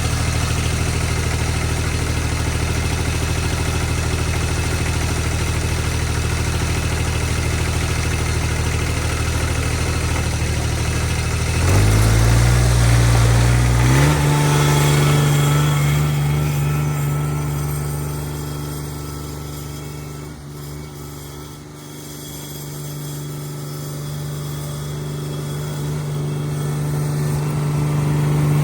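Cub Cadet 1782 garden tractor's 18 hp Onan twin-cylinder engine running steadily, then rising in engine speed in two steps, about 12 and 14 seconds in. The engine note then fades to its quietest about three quarters of the way through and grows louder again near the end.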